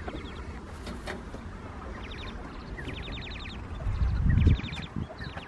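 Bird chirping in short rapid trains of quick notes, about ten a second, repeated several times, with a brief low rumble about four seconds in.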